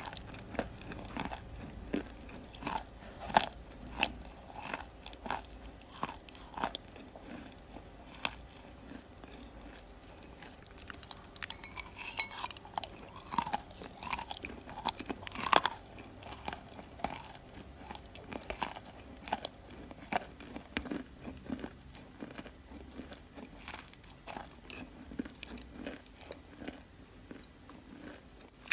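A person biting and chewing chunks of wet Ural clay close to the microphone: a steady run of irregular sharp crunches, easing off for a few seconds about a third of the way in.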